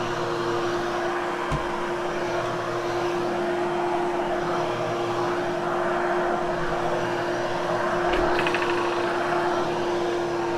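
Hoover Hushtone upright vacuum cleaner running steadily over carpet, a constant motor hum with airflow noise. A brief click about a second and a half in and a short rattle near the end.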